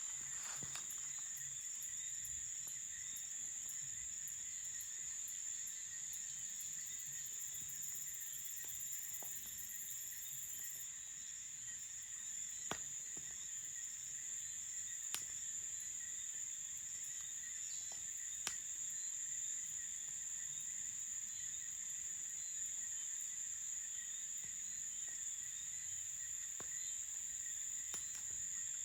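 Crickets chirring at night in a continuous high-pitched chorus, with a few sharp clicks now and then.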